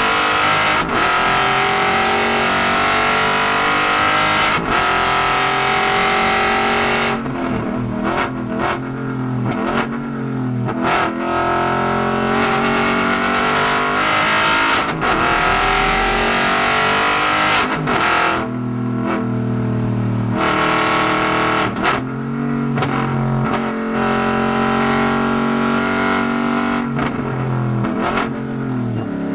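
An Aston Martin Vantage GT4's V8 engine, heard from inside the cabin at racing speed. It revs up through the gears, falls in pitch at each shift and climbs again. Short sharp cracks come in clusters as the car slows, about a quarter and again about two-thirds of the way through.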